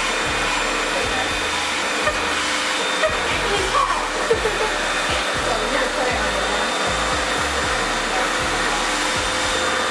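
Revair reverse hair dryer running steadily, its vacuum drawing air in through the wand with a constant rushing hum.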